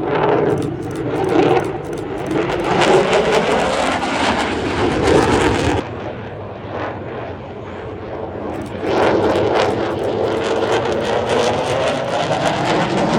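Jet aircraft making a loud low pass, its engine noise sweeping in pitch and crackling. The sound eases about six seconds in and swells again about three seconds later.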